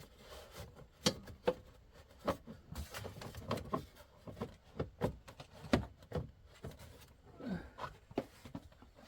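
Irregular plastic knocks and clicks as the air intake (air breather) box is handled and fitted back into place in the engine bay, with a brief squeak about three-quarters of the way through.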